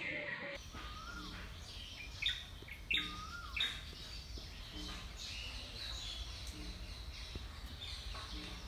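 Small birds chirping and calling repeatedly, with three louder chirps about two to four seconds in, over a low steady rumble.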